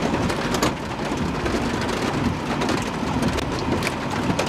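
Heavy rain beating on a vehicle: a steady rush with many sharp drop impacts ticking through it, over a low rumble.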